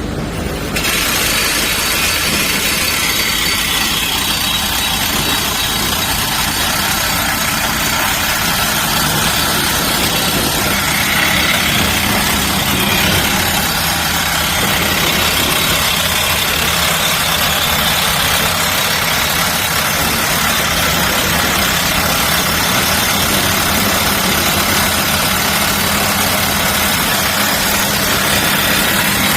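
Engine of heavy construction machinery running steadily, starting abruptly about a second in and holding an even level.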